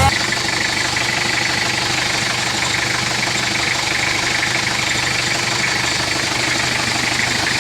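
Toyota 2L 2.4-litre four-cylinder diesel engine idling steadily.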